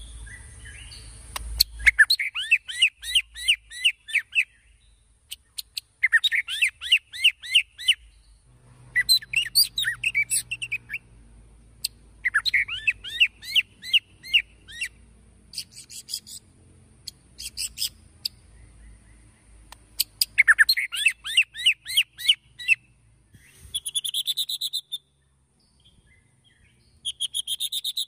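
White-rumped shama singing: repeated phrases of rapid, sweeping whistled notes, each lasting a couple of seconds with short pauses between. It is the excited, full song used as a lure (pancingan) to stir other shamas into singing.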